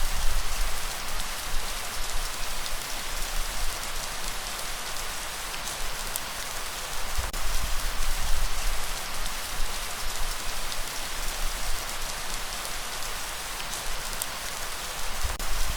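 Steady light rain falling, an even hiss with low rumbling swells now and then, a breeze on the recording.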